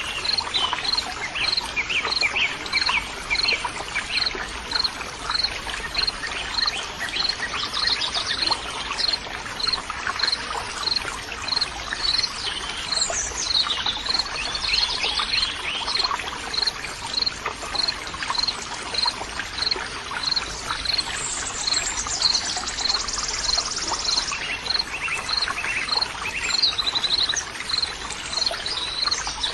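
Natural ambience of flowing water, a steady rushing hiss, with birds singing over it. A high chirp repeats steadily about once every three-quarters of a second, and a short buzzy trill comes a little past the middle.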